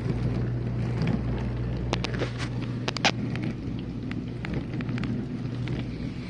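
Whirlpool dishwasher running mid-cycle: a steady low hum with a wash of water noise and a few scattered sharp ticks.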